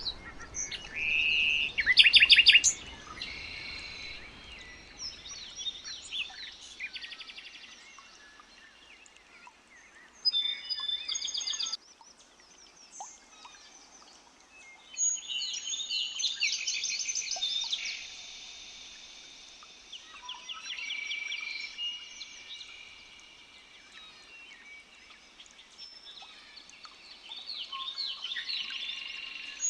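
Songbirds singing and chirping in bursts of quick, high trilled phrases with short gaps between, several calls overlapping; the loudest burst comes about two seconds in.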